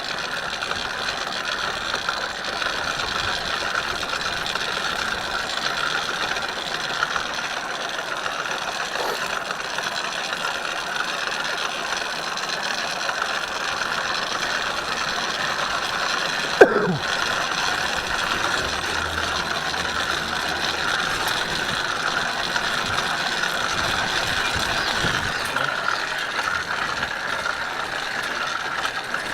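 Motorised bicycle's drive running steadily during a ride, a continuous mechanical whir with a gear-and-chain rattle. A single sharp click with a short falling tone about 17 seconds in.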